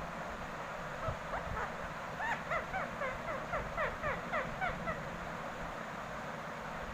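Indian ringneck parakeet giving a rapid string of about fifteen short, harsh calls, each dropping in pitch, from about a second in until about five seconds in.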